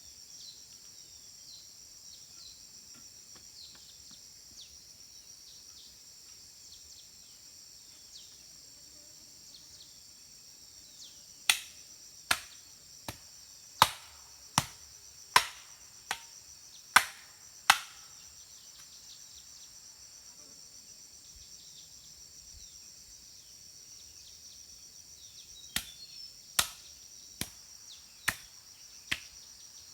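Insects shrill steadily in the background while a tool strikes sharply and repeatedly: eight blows in about six seconds near the middle, then six more near the end.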